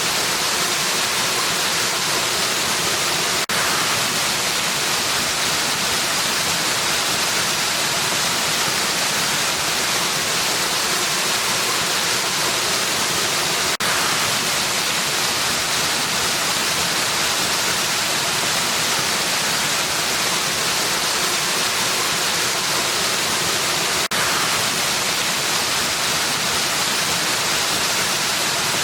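Waterfall rushing in a steady, even hiss, the water noise strongest in the upper range. A brief dip in the sound about every ten seconds, three times in all.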